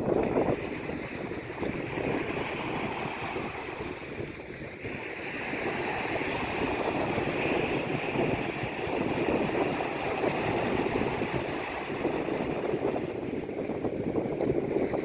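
Sea waves washing in: a steady rush of surf that swells and eases every few seconds.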